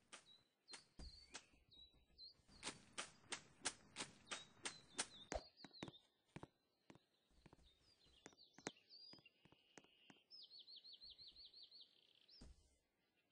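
Faint high bird chirps, ending in a quick trill of about eight notes, with a run of sharp clicks, about three a second, in the first half.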